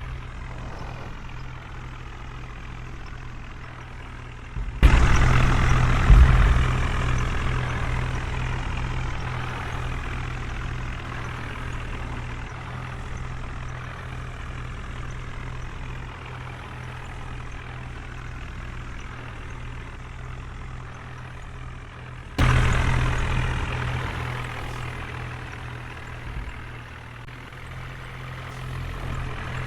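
Heavy diesel engine running steadily, with two sudden loud surges, about five and twenty-two seconds in, each easing off over several seconds, as when the throttle is opened hard under load.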